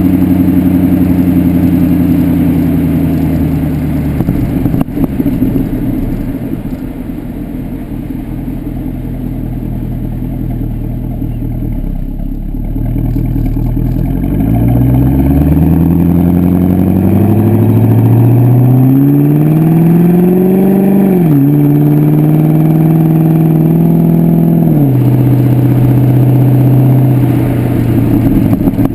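Corsa exhaust on a 2009 Pontiac G8 GXP's LS3 V8 while driving. A steady exhaust note eases off to a low rumble, then the engine pulls up in pitch from about halfway through, drops sharply at a gearshift and settles into a steady cruising note.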